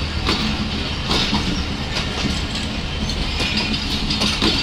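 Passenger coaches of a departing express train rolling past at speed: a steady rumble of wheels on rail, with sharp clicks as the wheels run over rail joints.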